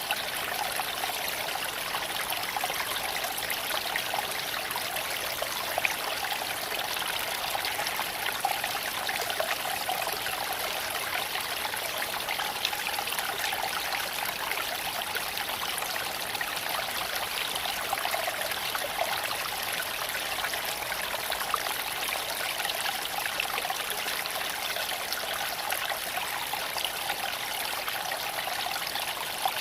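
Creek water flowing over stones: a steady, unbroken rush and trickle of running water.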